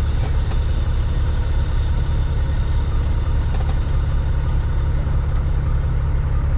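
Caterpillar 3406E inline-six diesel of a Freightliner FLD120 semi truck, running steadily at a low idle.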